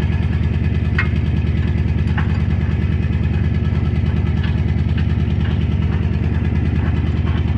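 Pickup truck engine idling steadily, with a few faint light clicks over it.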